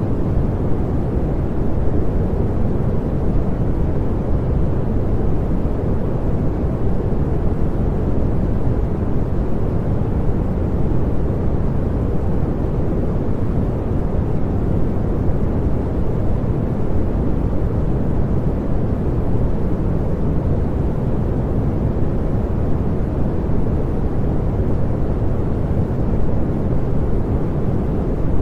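Continuous pink noise: a steady, even hiss weighted toward the low end, with no breaks or changes.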